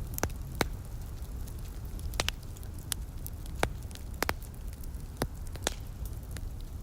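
Fireplace wood fire crackling: irregular sharp pops, about a dozen, over a steady low rumble.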